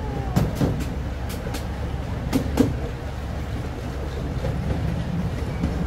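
Miniature ride-on train cars rolling along the track: a steady low rumble with sharp wheel clicks over the rails, several in the first three seconds and a few more later.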